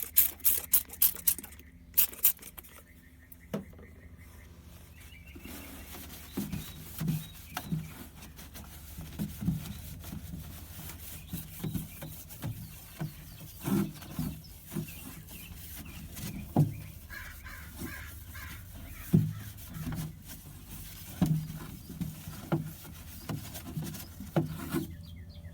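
Cleaning the inside of an evaporative humidifier's base: irregular rubbing and scrubbing strokes with small knocks, quick and dense at first, then sparser, about one or two a second.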